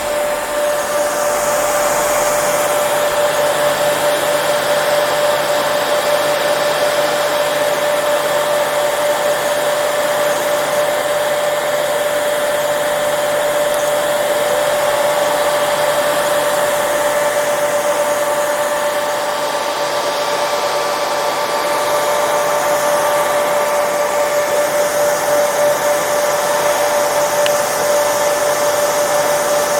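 Hair dryer running continuously, a steady rush of blown air with a constant motor whine.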